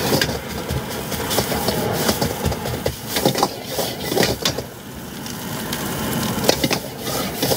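Irregular metal clanks and scrapes of a spatula working in a wok, over a steady rumble.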